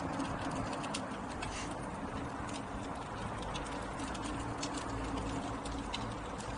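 InMotion V10 electric unicycle riding over rough ground: a steady low hum under a haze of rolling noise, with many irregular sharp clicks and knocks.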